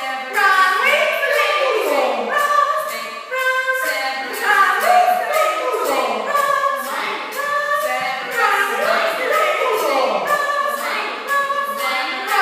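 Several high voices singing or vocalising together without words, with pitches held and sliding up and down and overlapping.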